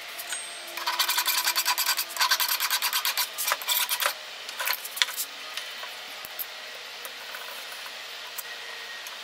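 A hand file rasping on a steel hatchet head in quick repeated strokes, about ten a second, for some three seconds. After that come a few scattered scrapes.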